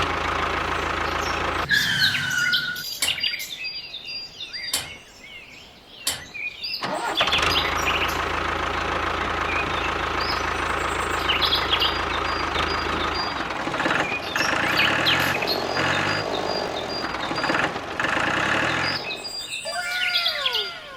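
A small engine running steadily in stretches, with birds chirping over it, and a short break partway through.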